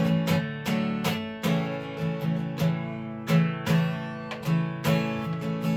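Acoustic guitar strumming chords in a steady rhythm, about two strums a second, with no singing.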